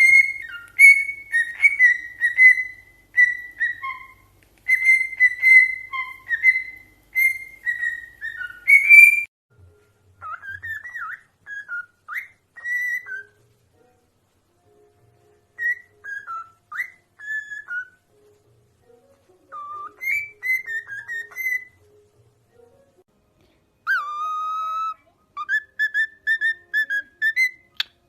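Pet parrot whistling: a run of repeated melodic whistle notes for about nine seconds, then shorter gliding chirps and squeaks broken by short pauses, then another run of whistled notes near the end.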